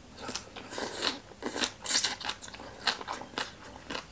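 Crisp, irregular crunching as a person chews a mouthful of shredded green papaya salad (Lao-style tam mak hung); the loudest crunch comes about two seconds in.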